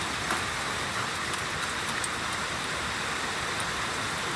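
Steady hiss of a heavy rain-and-hail storm, with scattered sharp ticks of hailstones striking.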